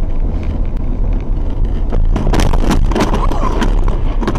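Heavy low rumble of a moving car as picked up by an in-car camera, with a run of sharp clattering knocks from about two seconds in.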